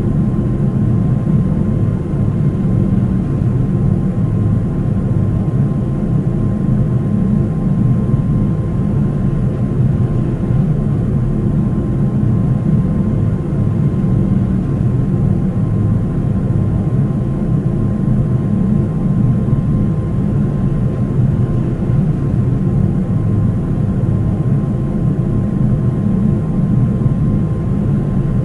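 Steady drone of a Boeing 737-800's CFM56-7B jet engines and airflow, heard from inside the passenger cabin, with a faint steady whine above the rumble.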